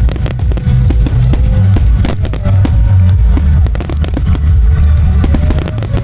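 Fireworks bursting in quick succession, with continuous deep booms and many sharp cracks, over music from loudspeakers.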